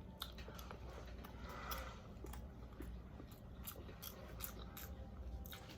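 Faint close-up chewing and eating: irregular soft mouth clicks and smacks.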